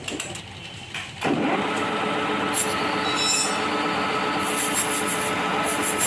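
A few light metal clinks, then about a second in a workshop machine's motor starts, spins up briefly and runs steadily with a hum and a whine.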